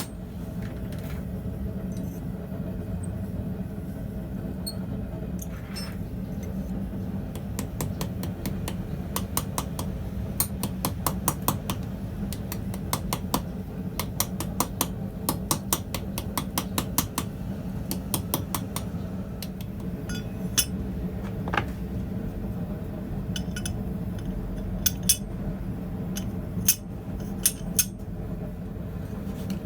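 Light, fast hammer taps on steel at the anvil, about three a second for a stretch in the middle, then a few scattered strikes. A steady low hum runs underneath.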